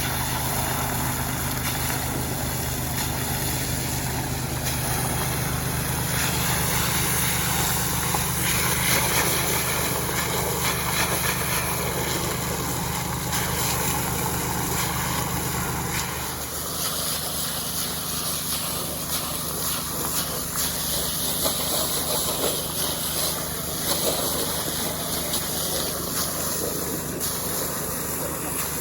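Small Robin petrol engine running steadily for gold-prospecting work, its tone shifting slightly about sixteen seconds in.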